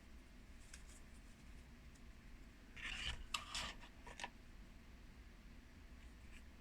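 A deck of oracle cards being handled as a card is drawn: a brief papery rasp about three seconds in, then a few short flicks.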